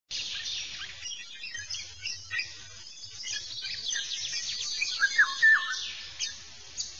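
Birds chirping and singing, with many short high chirps and a few louder whistled notes about five seconds in.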